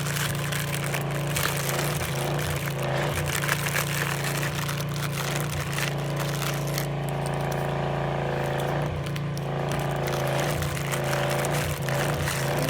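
Plastic MRE packaging crinkling and scraping as it is handled, in irregular crackles over a steady low hum.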